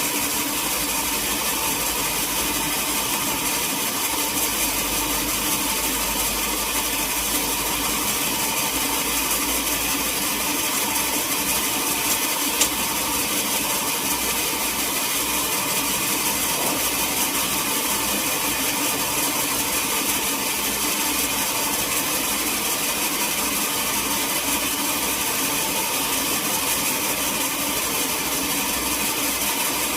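Sawmill saw running steadily, a constant mechanical noise, with one short sharp tick about twelve and a half seconds in.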